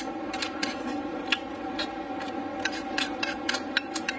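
A person chewing a mouthful of rice and soup: irregular sharp smacking clicks from the mouth, several a second, over a steady background hum.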